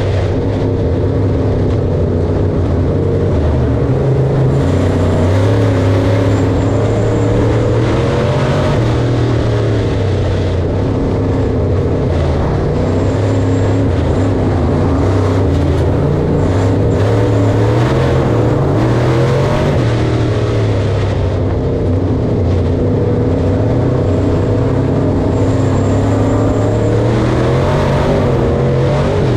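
Engine of harvest machinery running steadily, its pitch wavering slightly as under changing load, with a faint high whine that comes and goes.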